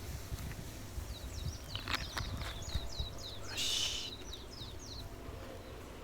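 Small birds calling outdoors: runs of short, quick, high downward-sliding chirps, with a louder, harsher call about three and a half seconds in. A few light clicks come near two seconds, over a low steady outdoor rumble.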